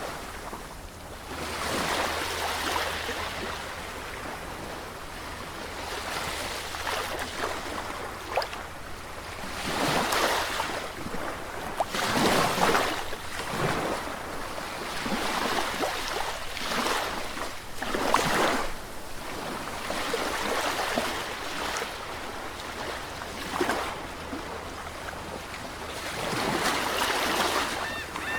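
Sea waves breaking and washing ashore, the surf surging and falling back every few seconds over a steady low rumble.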